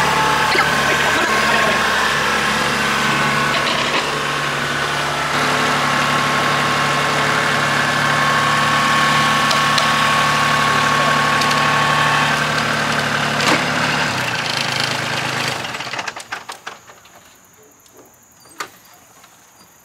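Small Kubota compact tractor's diesel engine running steadily, then shut off about 14 seconds in, after which only a few faint clicks are heard.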